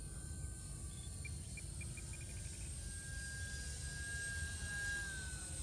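RC model Cessna 182 in flight, its motor and propeller giving a steady whine that grows louder about halfway through and dips slightly in pitch near the end. Wind rumbles on the microphone throughout.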